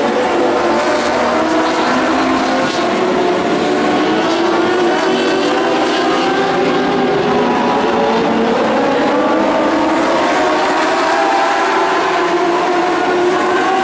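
Several dwarf race cars running together around the oval, their motorcycle engines rising and falling in pitch as the drivers get on and off the throttle, with no break in the engine noise.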